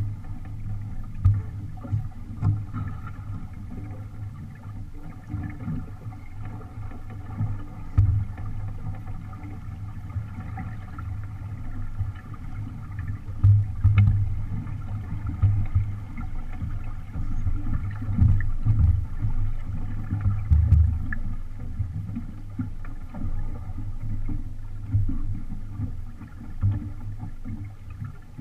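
Wind buffeting the microphone in uneven gusts aboard a small sailboat under sail, with water washing along the hull.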